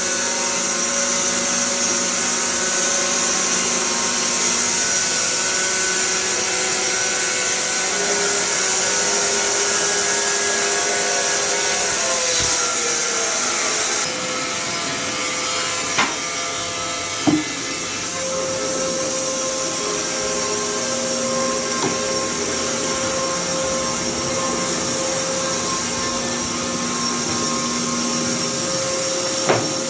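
Carpathian SMSA 110 semi-automatic sawmill running and sawing, a steady machine noise with several held hums. About halfway the high hiss drops off, followed by a few short knocks.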